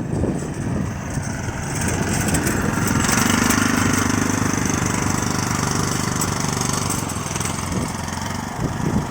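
Engine of a Neva MB23 walk-behind tractor running steadily, growing louder about three seconds in and easing back near the end.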